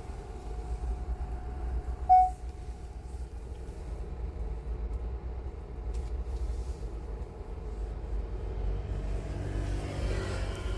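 Road and engine noise inside a moving car: a steady low rumble, with a short loud beep about two seconds in.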